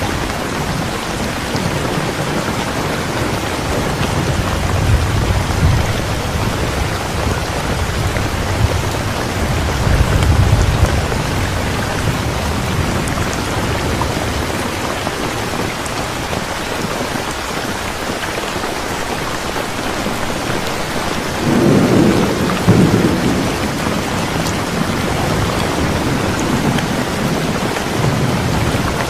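Steady rain falling, with low rolls of thunder rumbling several times, the strongest about three-quarters of the way through.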